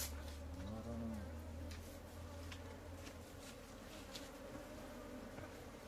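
Honeybees buzzing steadily in a swarm around a broken-open hive. A dove gives one low coo about a second in.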